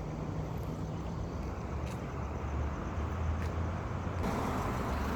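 Street traffic: a steady low motor rumble under a wash of road noise, growing fuller about four seconds in as a vehicle draws nearer.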